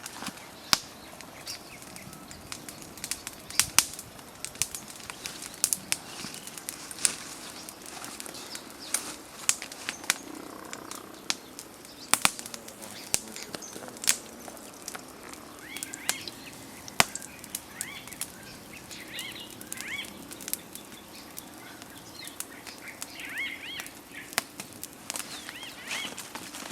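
Irregular sharp clicks and cracks throughout, with small bird chirps joining in during the second half.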